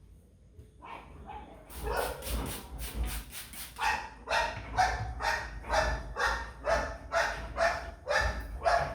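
A dog barking over and over, after a couple of faint barks, in a steady run of about two to three barks a second.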